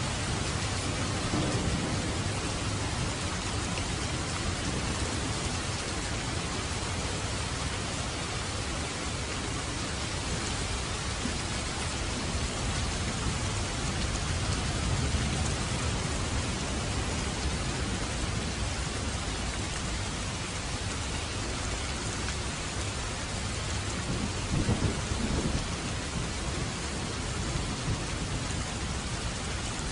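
Heavy rain pouring steadily, a dense even hiss, with a low rumble underneath that swells now and then, most strongly about 25 seconds in.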